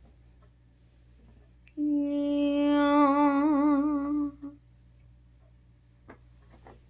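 A girl humming one held note for about two and a half seconds, steady at first, then wavering up and down.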